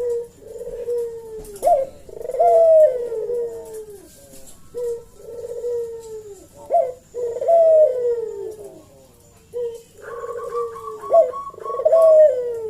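A puter (Barbary dove) cooing in repeated phrases, about one every five seconds. Each phrase is a short coo, a quick rising note and a long falling coo. It is the vocal 'gacor' calling used as a lure to make other puter doves answer.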